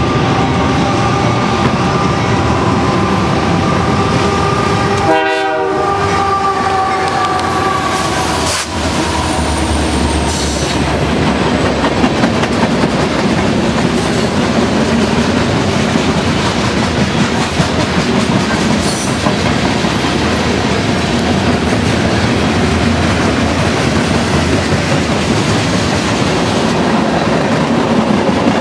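Canadian Pacific freight locomotive's multi-chime air horn sounding as the train comes up, breaking off briefly about five seconds in and stopping about eight seconds in. Then the freight cars roll past with a steady rumble and clickety-clack of wheels over the rail joints.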